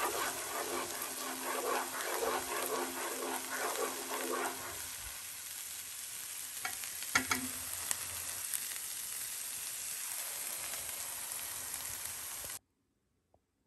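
Garlic frying in melted butter in a pan, a steady sizzle, stirred with a spoon for the first few seconds. A couple of sharp knocks come about seven seconds in, and the sizzle cuts off suddenly near the end.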